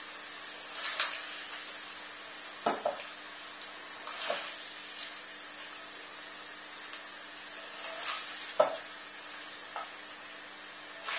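Tofu cubes sizzling in a little hot oil in a wok over a high gas flame, a steady frying hiss. A slotted spoon scrapes and knocks against the pan several times as the browned cubes are scooped out.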